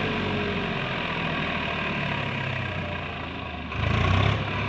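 Swaraj tractor's diesel engine running steadily, getting louder for about half a second near the end.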